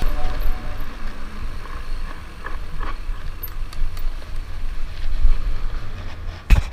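Enduro mountain bike rolling down a muddy trail, heard from a bike-mounted action camera: wind buffeting the microphone over a steady low rumble with scattered small rattles. A sharp, loud knock near the end.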